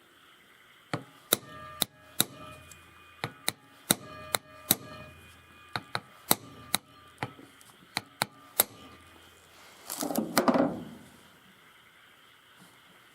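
Metal tools and small carburetor parts clinking and tapping on a hard work surface: a string of sharp, briefly ringing clicks at uneven spacing, then a short rattle about ten seconds in.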